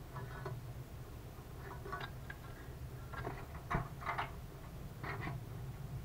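A small bird trapped inside a steel wood stove, making a scattered run of short scratching and tapping sounds as it moves about the firebox. One sharp knock comes a little past halfway.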